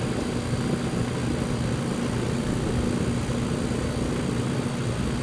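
Outdoor air-conditioner condenser unit running steadily, its compressor and newly replaced condenser fan motor both going, with a constant low hum over the whoosh of the fan.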